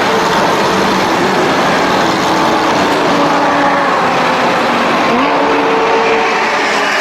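Loud supercar engines and exhausts driving past, several engine notes heard together; one engine's pitch climbs sharply about five seconds in as it revs.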